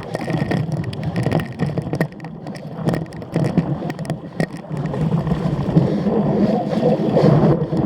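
Cyclocross bike being ridden hard over rough off-road ground: a steady rushing noise with many sharp clicks and rattles from the bike jolting over bumps.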